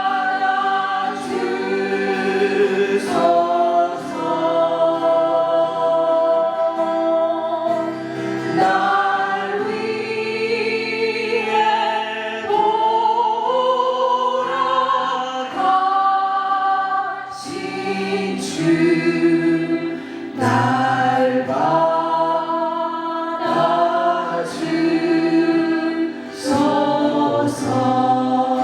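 A group of voices sings a Christian worship song together in sustained, held phrases.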